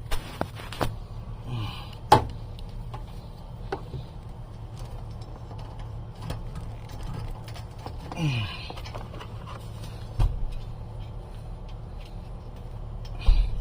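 Scattered clicks and knocks over a steady low hum, with heavier thumps about ten seconds in and near the end, like car doors and gear being handled around a parked vehicle.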